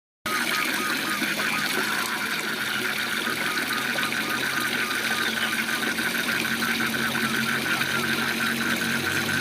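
Steady rush of a waterfall, with a frog calling in a fast, even train of pulses over it.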